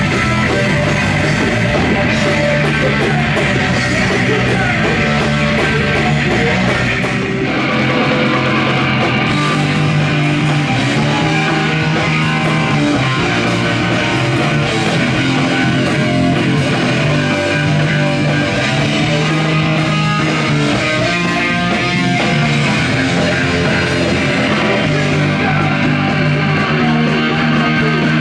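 Loud punk rock music with electric guitar and drums playing without a break.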